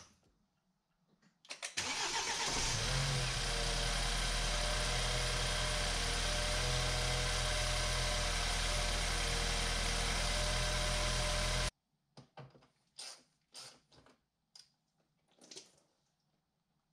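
Freshly rebuilt BMW N20 turbocharged 2.0-litre four-cylinder cranks briefly and starts, flares up for a moment and then settles to a steady idle. The engine sound cuts off abruptly about two-thirds of the way through, followed by a few faint clicks and knocks.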